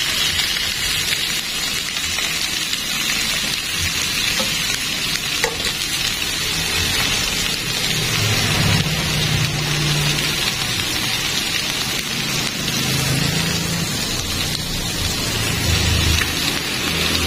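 Spice-marinated chicken pieces and a whole fish sizzling in a ridged grill pan, a steady frying hiss. A low hum comes and goes underneath.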